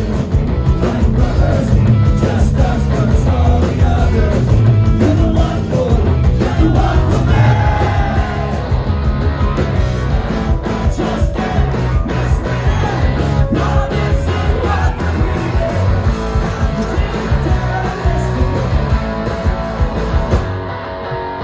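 Rock band playing live: loud electric guitars, bass and drums, with a voice singing over them, most clearly in the first half.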